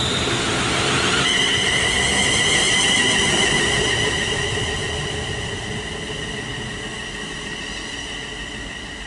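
London Northwestern Railway Class 350 Desiro electric multiple unit pulling out of the station. Its traction equipment gives a steady high whine over the rumble of the train, growing louder for the first few seconds and then fading as it draws away.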